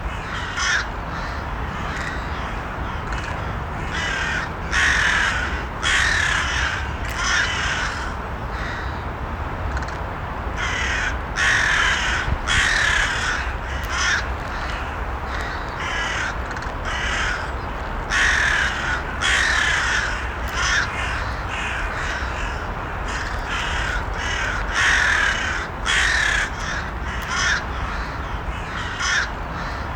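Crows cawing over and over, short harsh calls coming in runs of two or three every few seconds, over a steady low background noise.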